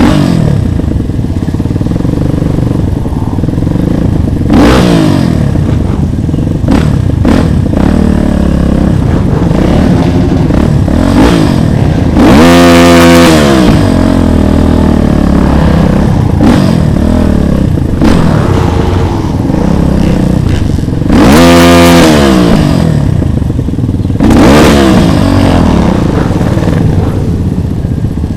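Small motorcycle engines running, with the throttle opened and closed again and again. Two loud revs, climbing and dropping in pitch, come just before halfway and again about three-quarters of the way through.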